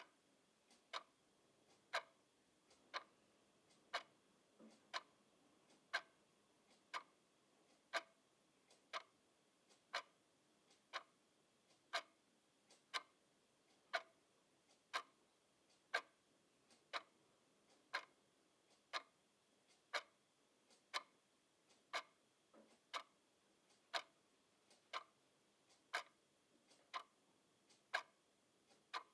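A clock ticking steadily at about one tick a second, each tick a sharp, light click, with fainter ticks in between.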